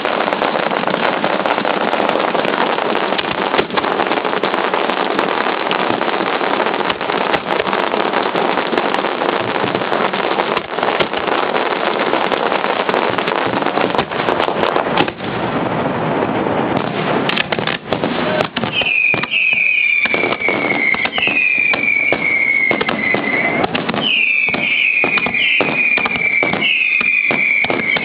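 Fireworks going off at close range: a dense, continuous barrage of bangs and crackling. After about eighteen seconds it thins to separate bangs, with a series of high whistles that each fall in pitch.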